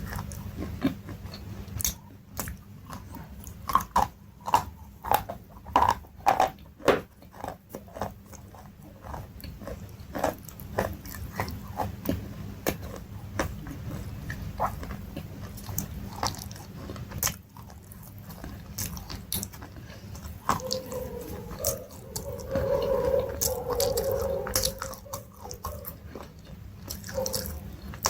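Close-miked biting and chewing of crunchy food, with a quick run of loud, crisp crunches in the first third, then slower chewing.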